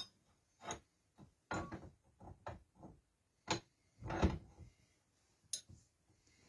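Irregular knocks and clunks of things being handled and set down in a woodworking shop, about nine in all, the loudest about three and a half and four seconds in.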